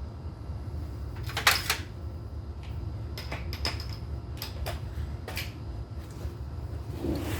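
Scattered metallic clicks and clinks of a socket wrench and extension working on a hitch bolt, the loudest cluster about a second and a half in, over a steady low hum.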